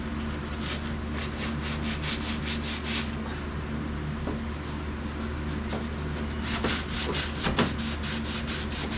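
Sandpaper rubbed by hand over painted vehicle bodywork, back-and-forth strokes about three to four a second in two spells with a lull in between, sanding into the old paint to see what lies beneath. A steady low hum runs underneath.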